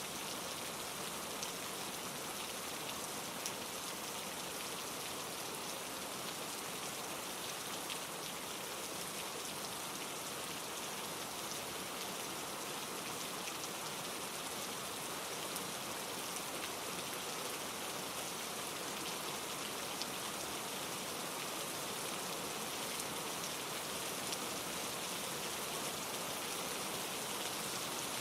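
Steady rain pattering on leaves and rocks, with scattered drop ticks, over a mountain stream running across rough granite rocks.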